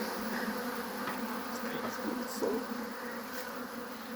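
A colony of honeybees buzzing around an opened hive: a steady, even hum.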